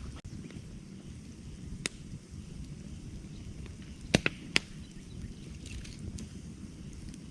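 Wood campfire burning with a low steady rumble and scattered crackles: a sharp pop about two seconds in, then a quick run of three loud pops a little past halfway.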